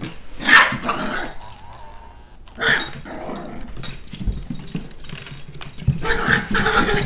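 Chihuahua puppy growling and barking in short bursts while play-fighting.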